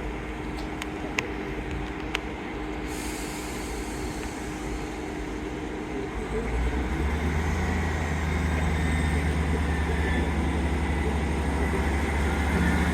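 A train running at a station platform: a steady low rumble that deepens into a louder, even drone about six and a half seconds in. Two faint clicks come about one and two seconds in.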